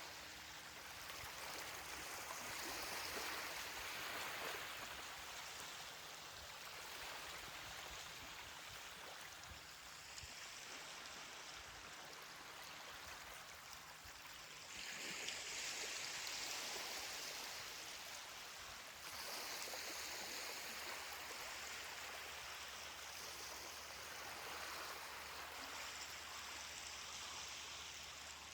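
Ocean waves washing onto a beach: a steady hiss of surf that swells and fades several times.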